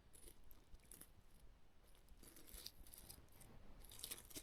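Near silence, with faint scattered crinkling and small clicks from cooked food being opened and handled. The clicks come a little thicker near the end.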